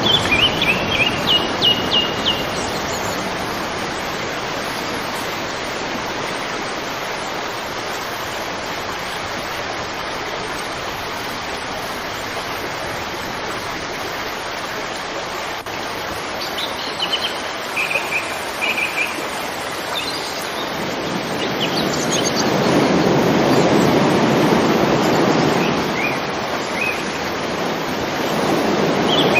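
River water flowing steadily, the rush swelling louder about three-quarters of the way in and again at the end. Birds chirp over it in short quick series: near the start, in the middle, and once more later.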